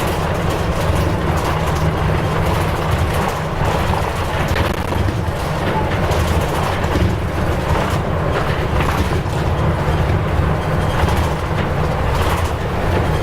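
Nissan Diesel U-UA440LSN city bus's diesel engine running steadily as the bus drives, a low drone under road noise.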